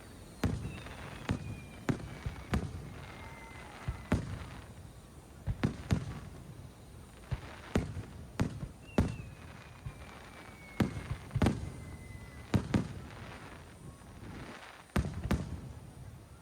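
Aerial fireworks shells bursting in an irregular string of a dozen or so sharp bangs, each followed by a low rumble. Two long whistles slide slowly down in pitch among the bangs, one near the start and one about midway.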